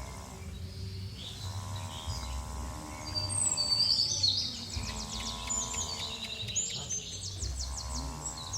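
Small birds chirping and trilling outdoors over a low steady rumble, with a flat droning tone that comes and goes three times.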